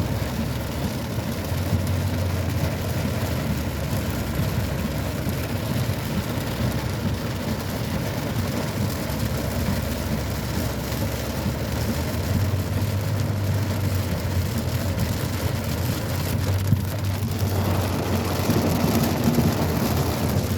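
Heavy rain drumming on a car's windshield and roof, heard from inside the car over the low, steady drone of the vehicle. The rain noise grows louder near the end.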